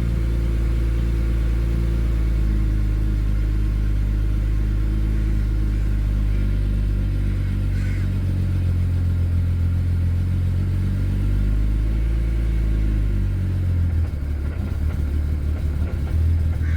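BMW 335i's N54 twin-turbo inline-six idling just after a cold start on unblended E85, running rough with some misfires. Near the end the idle turns choppier and more uneven.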